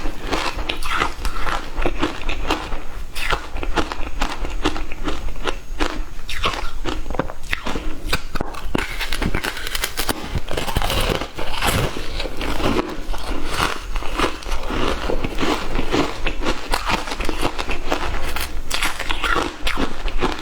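Frozen matcha ice being bitten and chewed: a continuous run of crunching, cracking bites.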